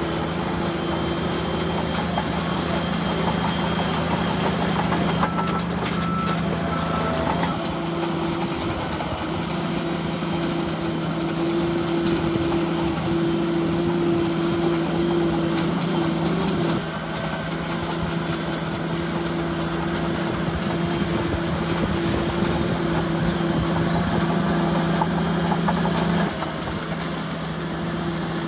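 Bulldozer diesel engines running steadily with a constant low hum, changing abruptly three times.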